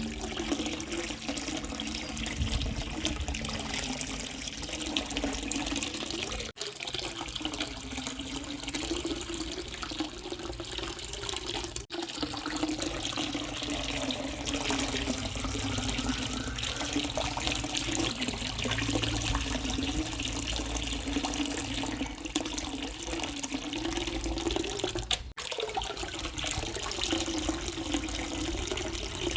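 Water running and splashing steadily, as from a small water pump supplying a miniature farm model, with a low hum that wavers in pitch. It cuts out for an instant three times.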